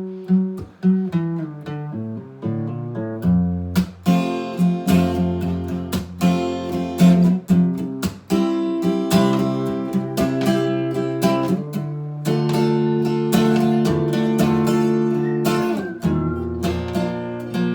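Acoustic guitar played without singing: single picked notes for the first few seconds, then strummed chords to the end.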